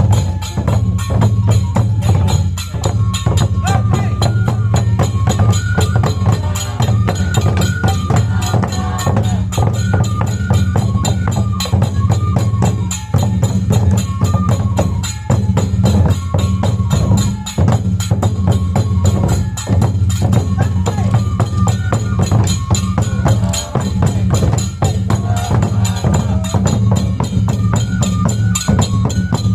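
Japanese festival dance accompaniment (hayashi): a stepping melody over fast, steady drumming and clacking percussion.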